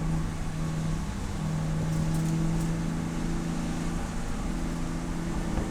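Race car engine running at fairly steady revs. Its note weakens briefly about a second in and then holds steady.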